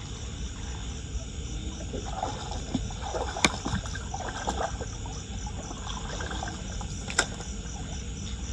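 Floodwater sloshing and trickling over a steady low rumble, with two sharp clicks, one about three and a half seconds in and one near the end.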